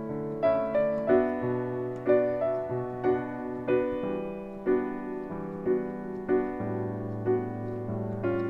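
Piano playing a slow bossa nova, with chords and melody together over a bass line that moves under them.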